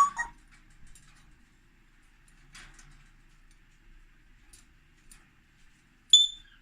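African grey parrot making short calls: a brief squawk right at the start, a few soft clicks, then one short, high, sharp whistle near the end.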